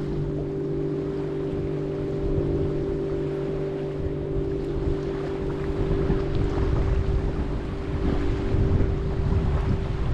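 A motor's steady drone holds through, with wind buffeting the microphone and surf behind it. The wind rumble grows gustier in the second half.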